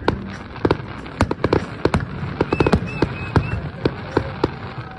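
Fireworks going off: a rapid, irregular string of sharp bangs and pops, many per second, some louder than others.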